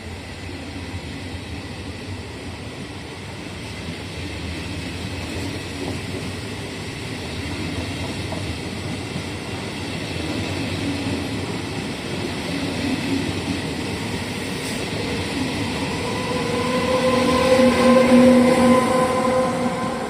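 A train approaching and passing on the line, its rumble building steadily. It is loudest near the end, where a steady hum or whine rises above the running noise before it fades.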